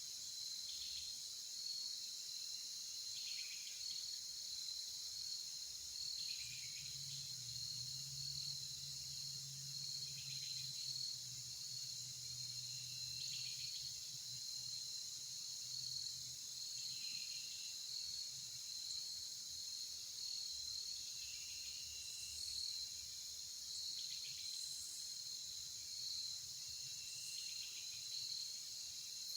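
Steady chorus of insects, such as crickets, with a short falling call repeating every two to three seconds.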